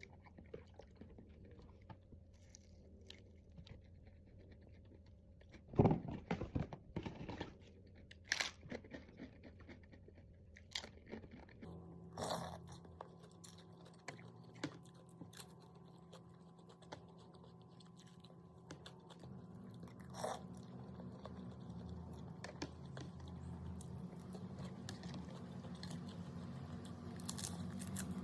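Close-up eating sounds: chewing and crunching food right at the microphone, with irregular crackles and the loudest bite about six seconds in. About twelve seconds in, a steady low hum comes in underneath and slowly grows louder.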